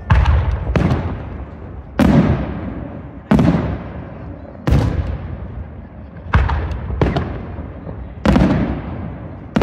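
Aerial firework shells bursting in a steady sequence: about eight loud bangs, one every second or so, each followed by an echo that fades before the next.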